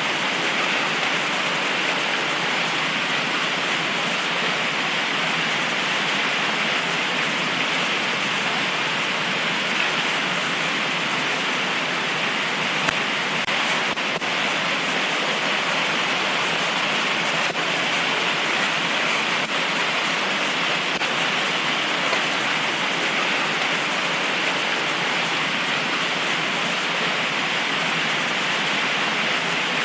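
Heavy tropical rain falling steadily, an even hiss, with a few faint ticks of drops here and there.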